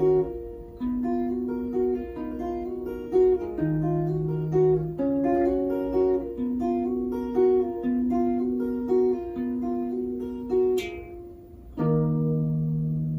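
Fingerstyle guitar picking a melody over sustained bass notes. Near the end a full closing chord is struck and left ringing.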